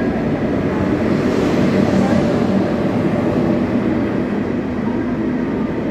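KTX high-speed train cars rolling past along the platform as the train pulls out, a steady rumble with a hiss that swells about two seconds in and eases a little as the last car goes by.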